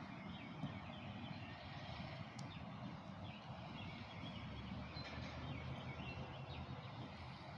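Outdoor ambience: a steady low rumble of traffic, with a bird chirping in short repeated phrases over it.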